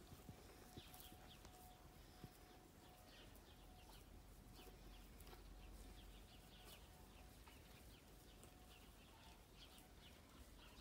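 Near silence: quiet farmyard background with faint, scattered bird calls and a faint steady hum that stops about eight seconds in.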